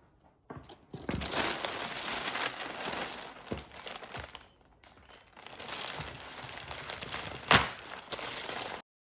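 Wrapping crinkling and rustling as it is handled, with one sharp knock about seven and a half seconds in; the sound stops suddenly just before the end.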